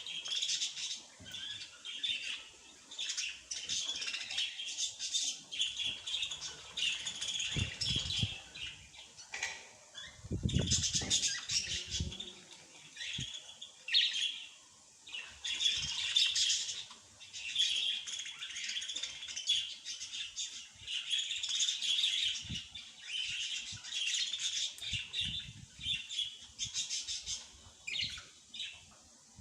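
Small birds chirping and twittering almost without pause, with a few low thumps around eight seconds and again about ten to twelve seconds in.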